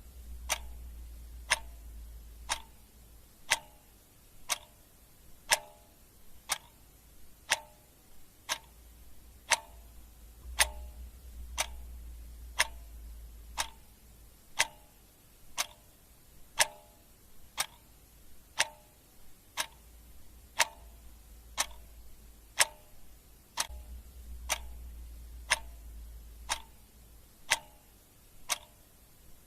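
Clock ticking steadily, about one tick a second, each tick a sharp click with a brief ringing tone. A low rumble swells and fades several times underneath.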